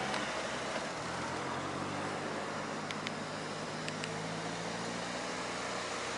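Steady rushing noise of riding a bicycle: wind on the microphone and tyres rolling on pavement, with a few light clicks about three and four seconds in.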